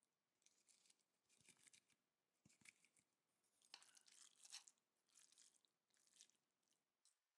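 Faint, close-up chewing of stir-fried instant noodles (Shin Ramyun stir-fry noodles): about a dozen short, irregular bursts, with a denser cluster in the middle.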